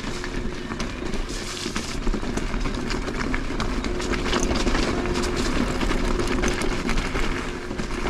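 Mountain bike rolling over a rough, rocky gravel trail: a steady rush of tyre noise crunching over stones, with a constant patter of small clicks and knocks as the bike rattles.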